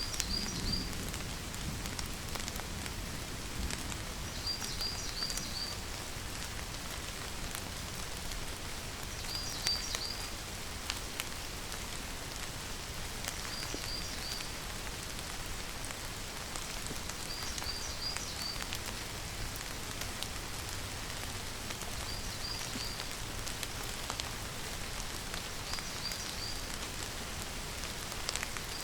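Steady rainfall, with a high call of three or four quick chirps repeating about every four seconds.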